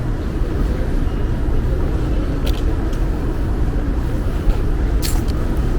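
Steady low rumble of wind buffeting the microphone, mixed with city street traffic noise. Two short high ticks cut through, one about two and a half seconds in and one near the end.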